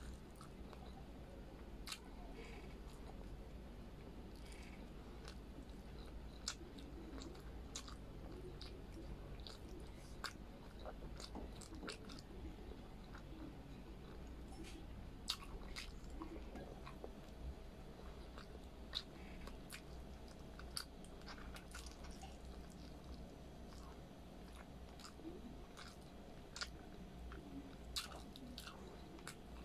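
Close-miked chewing and biting of braised pork humba and rice, eaten by hand: irregular mouth clicks and smacks, a few sharper than the rest.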